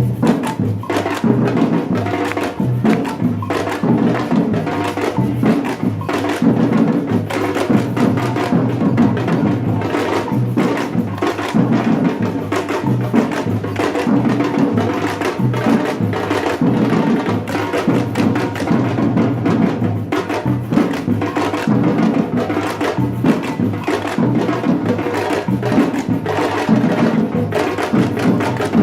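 Batucada samba percussion group playing a steady, dense drum rhythm with sharp wood-block-like strikes.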